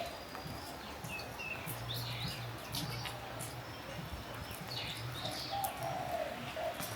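Birds chirping and calling, with short high chirps throughout and a lower warbling call about five seconds in. A low hum runs for about a second and a half starting near two seconds in.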